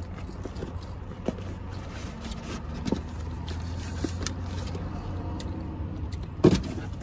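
Steady low rumble of a running car heard from inside the cabin, under scattered small clicks and rustles as a burger is picked up and handled. There is one louder knock near the end.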